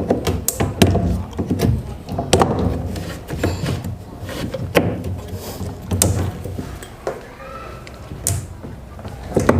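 Flathead screwdriver prying and scraping at the glued plastic drain-pipe joint on a washing machine's drain selector: irregular clicks, knocks and scrapes of tool on plastic as the old pipe is worked loose.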